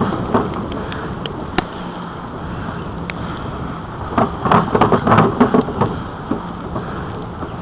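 Steady wind noise on the microphone of a camera riding along on a bicycle, with tyre noise. A cluster of rattles and knocks comes about four to six seconds in.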